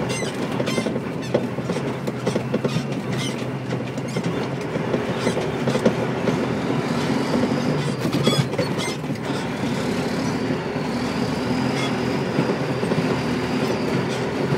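Dump truck engine running steadily at low speed, heard from the cab, with frequent clanks and rattles as the truck rolls over a rough road. A faint high squeal comes in about halfway through and holds for several seconds.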